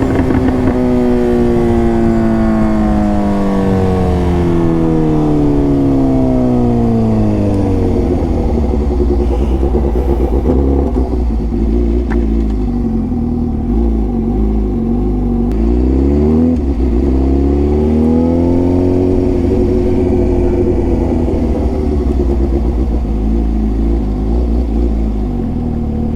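Suzuki GSX-S750's inline-four with a full aftermarket exhaust (Ezaki header, SC Project silencer): the engine note falls steadily for about eight seconds as the revs drop off, runs low for a while, rises and falls once more in the middle, then settles into a steady low note.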